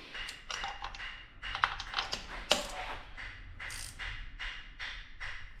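Irregular metallic clicks and taps of hand tools, a ratchet among them, tightening spark plugs back into an engine.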